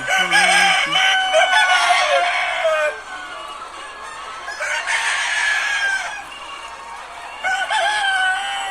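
Roosters crowing in a poultry farm, several calls overlapping, in three bouts: at the start, about five seconds in, and near the end.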